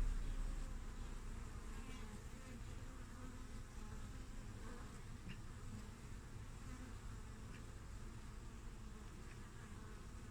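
Honeybees buzzing at the hive entrance: a steady, wavering hum of many wings, a little louder in the first second or two.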